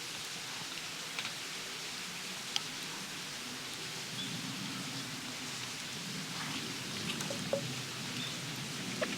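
Campfire cooking: a steady hiss with scattered sharp crackles and pops, and a low rumble that builds about halfway through.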